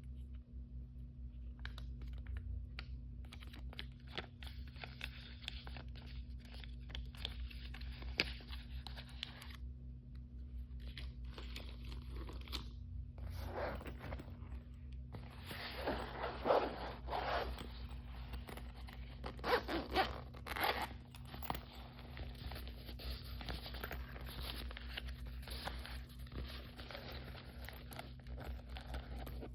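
Packaging being torn open and crinkled by hand: a run of crackling, rustling and tearing, loudest in two bursts a little past the middle. A steady low hum sits underneath.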